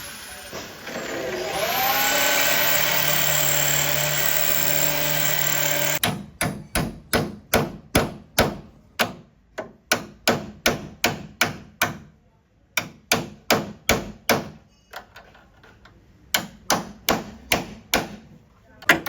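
A power tool spins up and runs steadily, then stops about six seconds in. Hand-hammer blows follow, about two to three a second with two short pauses, typical of denting a car's sheet-metal body panels.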